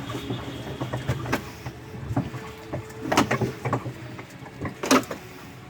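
Irregular knocks and creaks of a small wooden rowing boat being steered and turned, over a low steady hum. The loudest knocks come about three and five seconds in.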